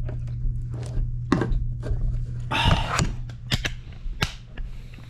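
Scattered sharp knocks and clicks over a steady low hum, with a short noisy rustle about halfway through.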